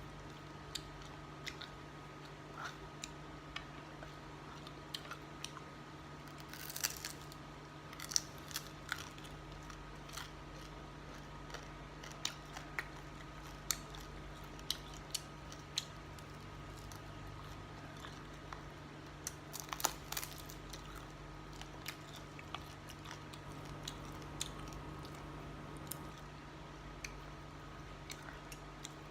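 A person eating: soft chewing with scattered small crunches and clicks, over a steady low hum.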